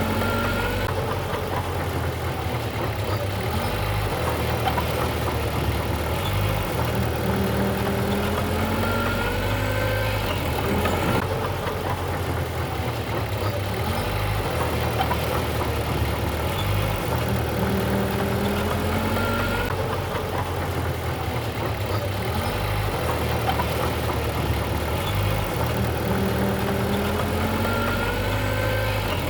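Diesel engine of a Mitsubishi BD2G bulldozer running steadily while it works, its pitch rising and falling again every several seconds.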